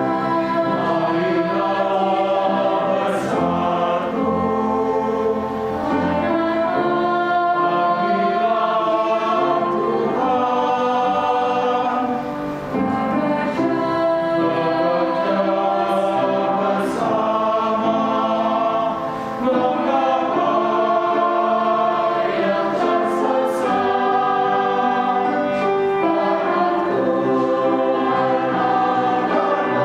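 Adult choir singing in several voice parts, holding chords that move from one to the next.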